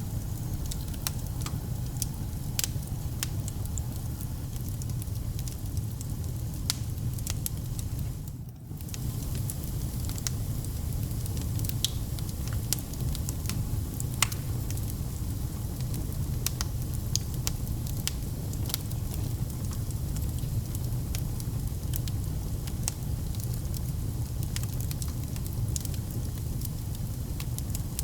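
Wood fire burning in a fireplace: a steady low rumble of flame with frequent sharp crackles and pops. The sound briefly drops away for a moment about eight seconds in.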